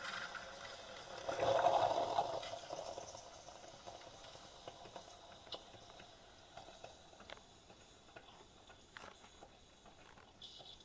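Bosch Tassimo brewer at the end of its dispensing cycle: a louder burst of sputtering noise about one to two seconds in as the last of the drink is pushed through the T DISC into the mug, then dying away to faint scattered clicks and drips.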